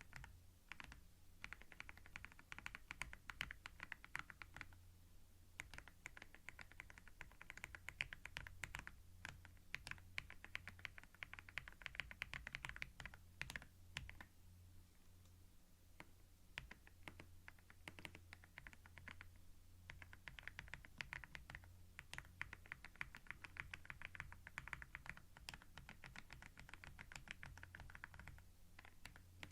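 Fast typing on a computer keyboard, picked up close to binaural microphones: rapid runs of key clicks broken by pauses, with a longer, sparser stretch in the middle.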